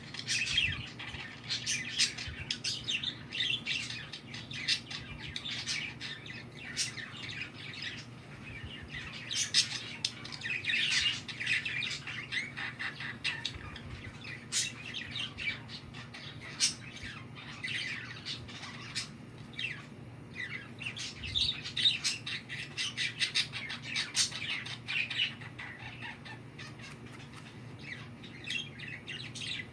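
Many small birds chirping and calling at once, a dense, continuous chatter of short, sharp notes with some harsher squawks.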